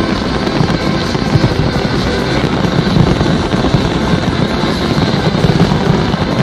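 Fireworks going off in a dense, continuous barrage of low booms and crackle, with music playing over them.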